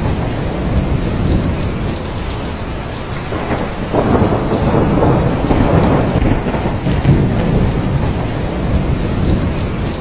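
Thunderstorm: steady heavy rain with a low roll of thunder that swells about four seconds in and fades after about three seconds.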